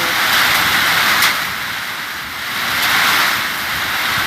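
Loud, steady rushing of storm wind and rain on the microphone, swelling and easing, with a sharp click a little over a second in.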